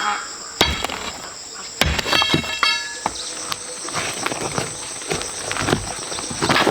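Steady high-pitched drone of insects, with a few sharp, ringing knocks: one about half a second in and a quick cluster around two seconds in.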